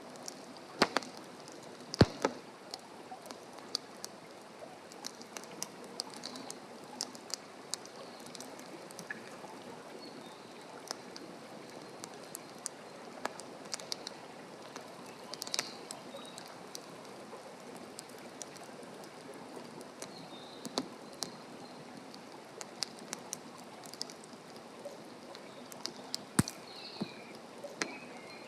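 Wood fire burning in a fire stand, crackling with frequent sharp pops over a steady low hiss; the loudest pops come about two seconds in and again near the end.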